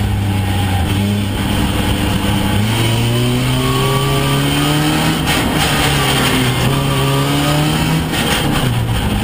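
Opel Astra F slalom car's four-cylinder engine heard from inside the cabin, revving hard under acceleration, its pitch climbing, dipping briefly about five seconds in, climbing again and falling away near the end as the driver lifts.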